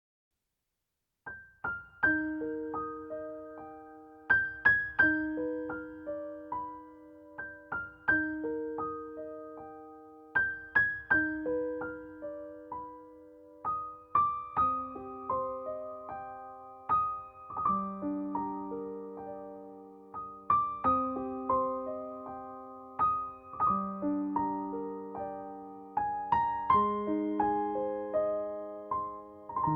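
Background music: a slow, gentle piano melody of single struck notes that ring and fade, starting about a second in.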